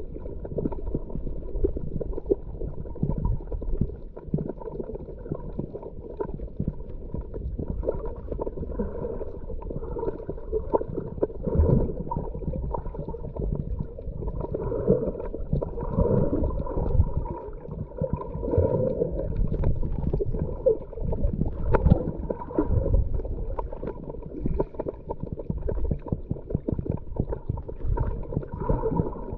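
Muffled underwater sound heard through a camera's waterproof housing: a scuba diver's exhaled bubbles gurgling in irregular surges, with a few sharp knocks.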